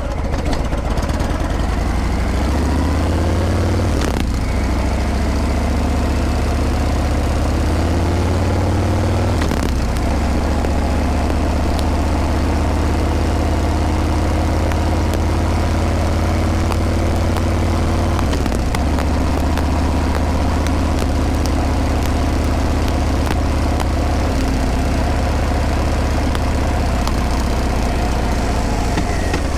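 Harley-Davidson Breakout's V-twin exhaust while riding. It pulls away with its pitch rising, shifting up about four and nine seconds in, then runs at a steady cruise, with a gear change around eighteen seconds in.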